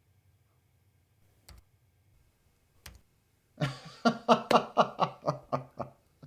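Two single key presses on a computer keyboard, then a man laughing in a quick string of loud "ha" pulses for about two and a half seconds.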